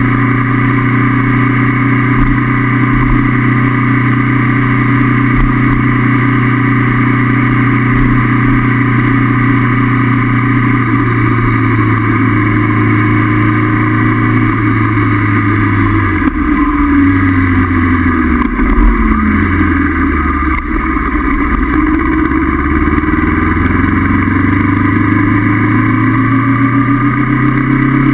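Honda CB500F's parallel-twin engine running under way on the road. It holds a steady note at first; about halfway the pitch drops twice as the bike slows and shifts down, then it climbs steadily as the bike accelerates again.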